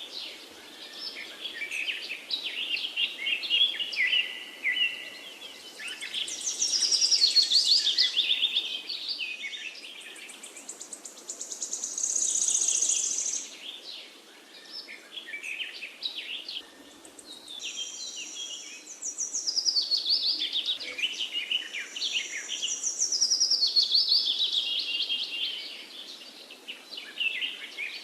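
Several birds chirping and singing together: overlapping phrases of quick chirps and high trills that swell and fade every few seconds, over a faint background hiss.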